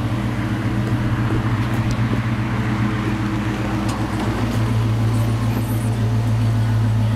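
1997 Ford Mustang's 4.6-litre V8 idling steadily with a deep, even exhaust hum.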